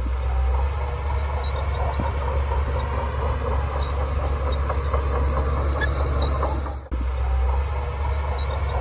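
Shantui DH17C2 bulldozer working, its diesel engine and machinery making a steady, heavy low rumble. The sound drops out for an instant about seven seconds in.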